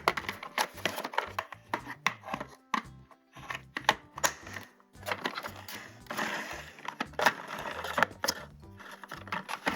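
Plastic toys and packaging being handled: many sharp clicks and taps and short bouts of crinkling, over background music.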